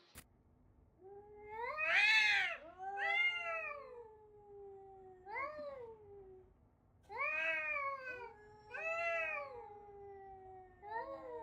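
A cat meowing and yowling repeatedly: about six loud calls that rise and fall in pitch, the loudest about two seconds in, with lower drawn-out yowls sliding down beneath them.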